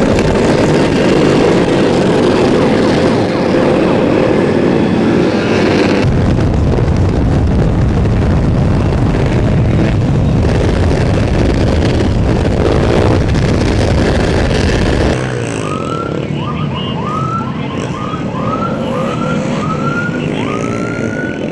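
Engines of a pack of dirt bikes and ATVs running and revving, loud and dense. About fifteen seconds in this gives way to a police siren making quick, repeated rising sweeps.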